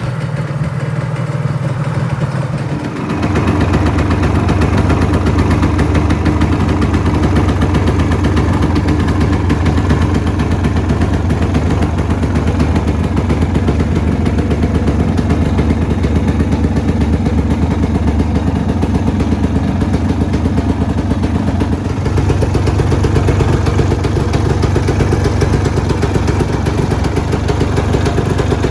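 Honda CRM250R's two-stroke single-cylinder engine running at a steady idle through a Pro Skill OB-M1 aluminium aftermarket silencer. The exhaust note gets louder and fuller about three seconds in, then holds steady.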